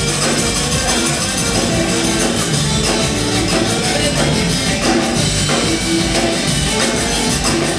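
Live band playing an instrumental passage with drum kit, guitar and tambourine, loud and steady.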